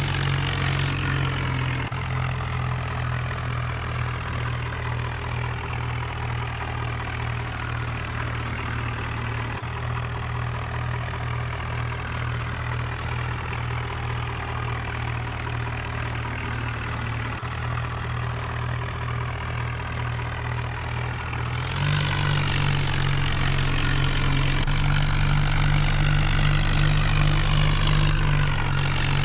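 Tractor engine running steadily. The sound changes abruptly about a second in and again about 22 seconds in, growing louder and brighter after the second change.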